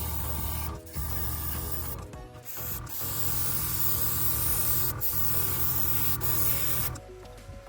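Spray paint hissing as a coat goes onto diecast model truck parts, in a run of sprays with short breaks between them, ending about seven seconds in.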